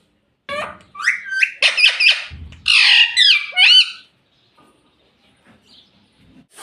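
Pet ringneck parrot giving a quick run of sharp squawks and chirps with steep rising and falling pitch slides, lasting about three and a half seconds and then stopping.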